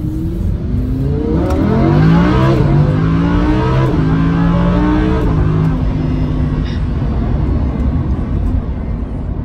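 Lamborghini Huracán's V10 engine accelerating, heard from inside the cabin: the pitch climbs, drops as it shifts up about two and a half seconds in, climbs again and drops at a second upshift about five seconds in, then runs steadier.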